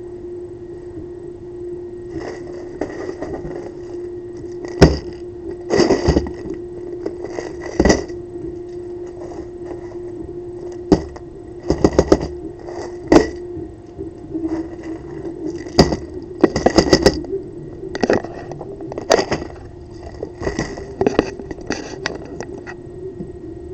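Solenoid of a 3D-printed pulse-propulsion device clacking in irregular pulses, each sharp knock followed by the rattle of a stack of bolts jolting across a table, over a steady hum.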